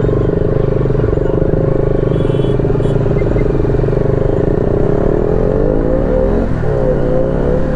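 Bajaj Pulsar NS200's single-cylinder engine running under way at steady revs, its pitch then climbing over a couple of seconds, dipping briefly, and rising again near the end.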